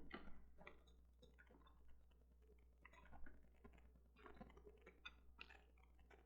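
Near silence with faint, scattered clicks of a computer mouse being worked, over a low steady hum.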